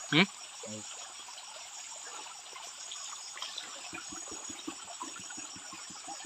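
Insects chirping in a steady, high-pitched, pulsing chorus, with water trickling faintly and a short run of soft low ticks about four seconds in.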